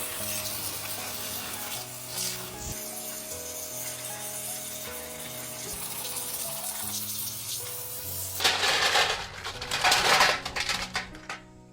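Water splashing and sloshing under background music, with two louder splashes about eight to ten seconds in.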